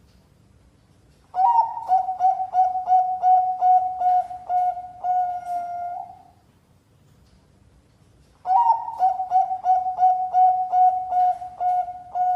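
Bangkok-type zebra dove (perkutut) cooing in two song phrases. Each phrase is a quick run of short, clipped coos, about three a second at one steady pitch, ending in a longer held coo. The second phrase starts about eight seconds in.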